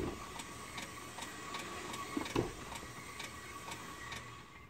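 Rear drivetrain of a 1984 Chevrolet Corvette C4 clicking steadily, about two to three clicks a second, as the raised rear wheel is turned forward by hand, with one louder thump about two and a half seconds in. The clicking goes with a grinding felt when driving, which the owner takes for the rear end or something, maybe the brakes.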